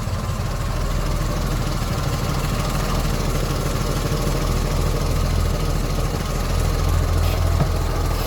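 1958 Mack B-21 fire truck's 1,091-cubic-inch Hall-Scott inline-six engine idling steadily just after a restart, pulling steady fuel. It gets a little louder toward the end.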